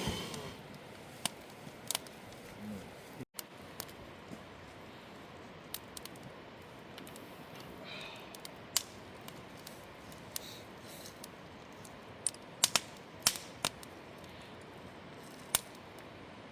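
Wood campfire crackling: a steady hiss with sharp pops at irregular intervals, a quick cluster of them near the end.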